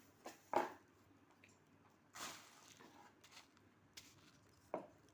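Faint handling sounds: a few short knocks and clicks, the loudest about half a second in, with a brief rustling scrape a little after two seconds.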